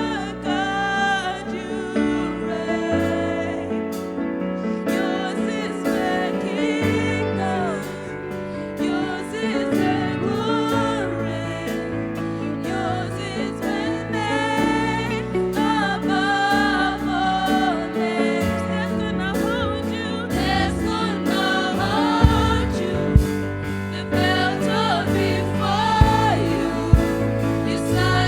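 Live church worship band playing a slow gospel song, with voices singing over sustained keyboard chords and bass. A few drum hits come in near the end.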